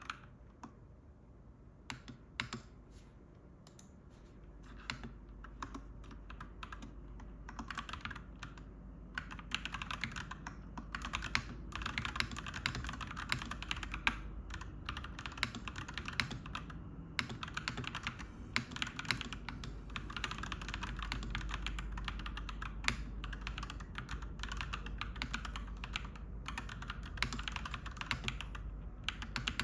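Typing on a clacky mechanical keyboard: a rapid, uneven stream of key clacks with a few brief pauses. A low rumble rises in the background from about four seconds in and is strongest about two-thirds through.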